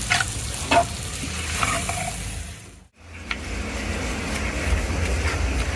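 Onions, chillies and curry leaves sizzling in hot oil in a clay pot, with a few short scrapes of stirring in the first two seconds. The sound drops out briefly about three seconds in and returns as a steady sizzle over a low rumble.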